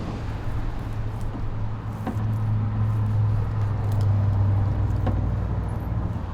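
Road traffic: a vehicle passing on the highway, its low engine and tyre hum swelling around the middle and easing off near the end.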